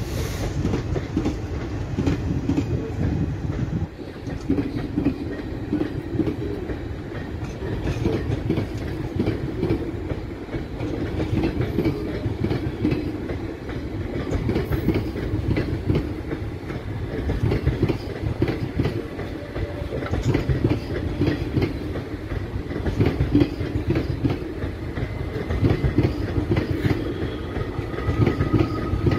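Indian Railways passenger coaches rolling past as the express departs: a steady rumble with the clickety-clack of wheels on the rails.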